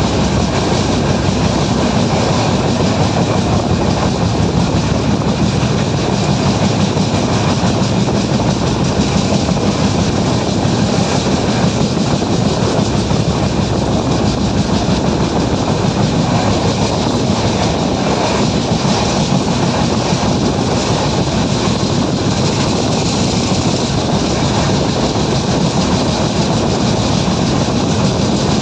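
Steady, loud running noise of a moving train: its wheels rolling on the rails, heard at an open door or window of the coach.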